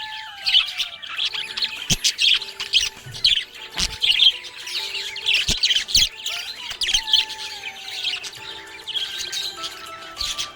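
Budgerigar chirping and warbling in a continuous run of quick, high chirps.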